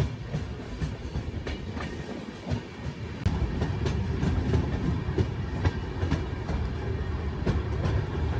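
Passenger coach wheels running on the track, heard from the open doorway: a steady rumble with irregular clicks over the rail joints, growing a little louder about three seconds in.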